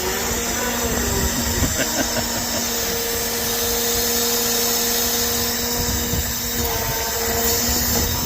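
Hydraulics of a Serco log loader whining steadily over a low machine rumble, the whine shifting pitch slightly a couple of times.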